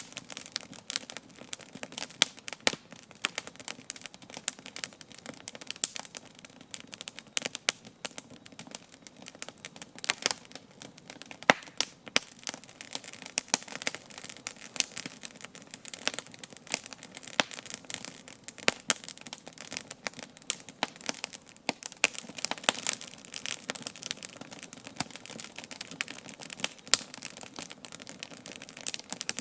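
Wood campfire crackling: a dense, irregular run of sharp pops and snaps over a soft hiss of burning.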